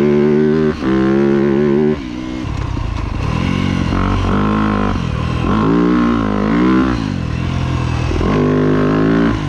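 2025 Yamaha YZ250F four-stroke single-cylinder engine under hard riding: revs held high with a brief dip about three-quarters of a second in, the throttle coming off about two seconds in, then revs rising and falling several times before holding steady near the end.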